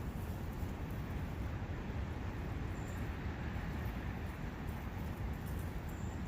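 Steady rushing of wind and a running brook in a forest, a constant even noise with a strong low rumble.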